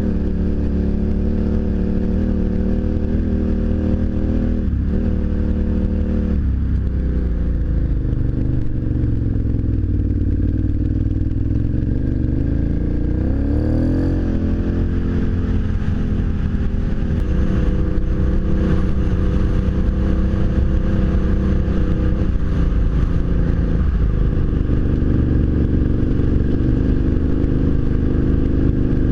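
Adventure motorcycle's V-twin engine running under way, with wind noise. The engine note falls a few seconds in, then climbs back up about halfway through, with brief dips in the note twice.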